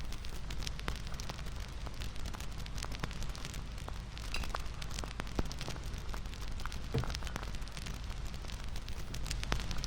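Wood fire crackling: irregular snaps and pops over a steady low rumble.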